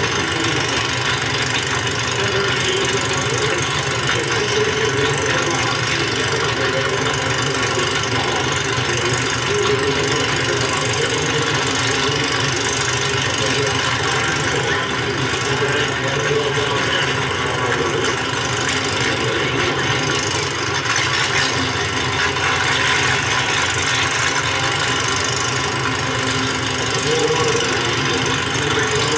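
Race car engines idling steadily, with a constant hiss over the whole sound.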